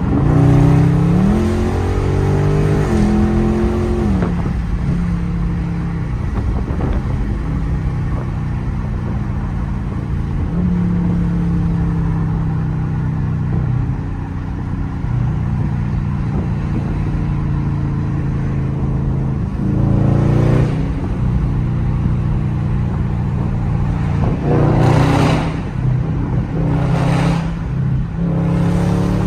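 Dodge Scat Pack Widebody's 392 HEMI V8 running through an exhaust with the mid mufflers deleted. It pulls up through the revs over the first few seconds, then cruises steadily. Near the end come several short, sharp throttle surges.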